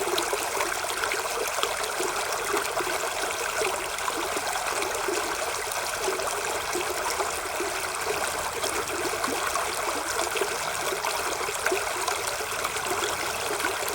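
Running water, a steady rushing with fine trickling and splashing, like a small stream.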